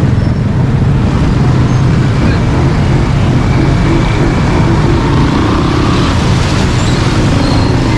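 Steady low rumble of road traffic, with vehicle engines running as cars and buses push through floodwater.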